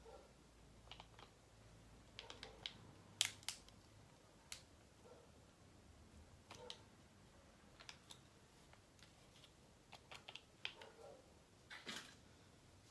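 Faint, scattered clicks and taps of small plastic containers and tools being handled while fluorescent green powder is added to clear slime, with the sharpest click about three seconds in and a short cluster near the end.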